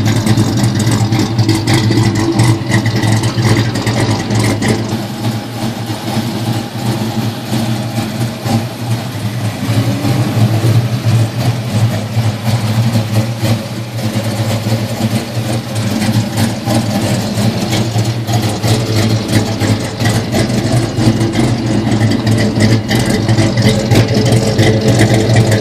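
1990 Ford Mustang GT's 5.0-litre V8, fitted with a 303 cam, idling steadily through its exhaust. It is softer for several seconds in the middle, heard from the front of the car, and louder again at the tailpipes.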